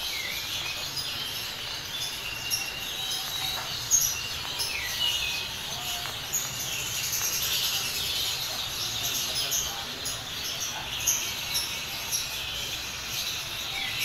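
Caged birds chirping, with short high calls and small pitch glides scattered throughout over a steady hiss, and one sharp tick about four seconds in.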